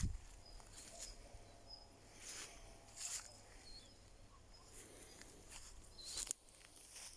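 Quiet outdoor ambience with a few irregular rustling footsteps in dry autumn leaves and faint, short, high bird chirps.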